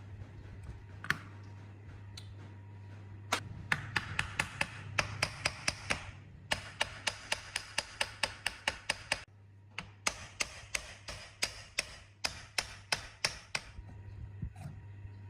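Rapid metallic tapping: quick runs of sharp strikes on metal, about five a second, in four bursts with short pauses between them, over a steady low hum.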